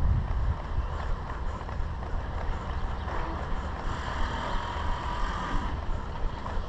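Heavy wind rumble on the microphone over outdoor vehicle noise. A passing vehicle, which may be a truck, brings up a brighter hum from about three seconds in that fades before the end.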